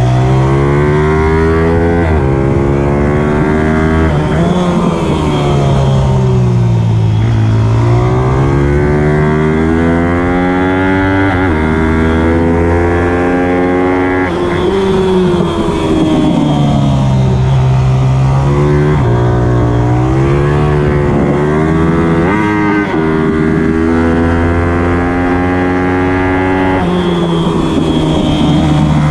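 Pit bike engine being ridden hard: revs climb, drop sharply at each gear change, and fall away when it slows, several times over.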